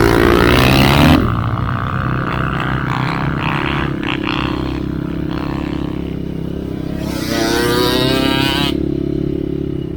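Enduro motorcycle engine revving up in the first second, then running steadily at lower revs, and revving up again about seven seconds in before easing off near the end.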